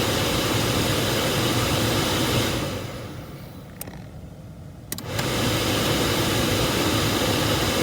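The 2005 Ford Explorer's HVAC blower fan running steadily with the AC on, dropping away for about two seconds in the middle, with two clicks, then coming straight back on.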